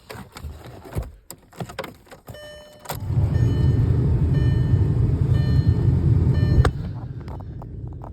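A TDI turbodiesel car engine is cold-started in freezing weather. A few clicks and rattles come first, then about three seconds in the engine catches and runs loud and steady at a cold fast idle. The level drops somewhat near the end.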